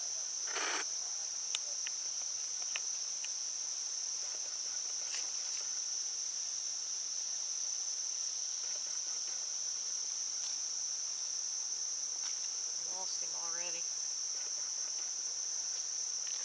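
Insects trilling in one steady, high, unbroken drone. About thirteen seconds in, a short rising run of chirps sounds over it.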